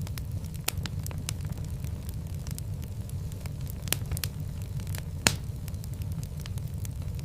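Wood fire burning in a fireplace: a steady low rumble of the flames with irregular sharp crackles and pops, one louder pop about five seconds in.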